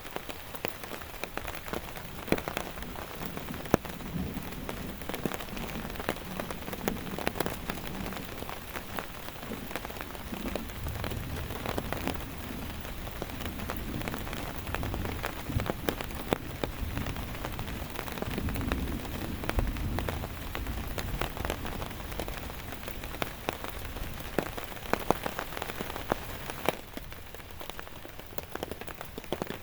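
Steady rain with many close drops tapping sharply on a nearby surface. A low rumble swells and fades through the middle.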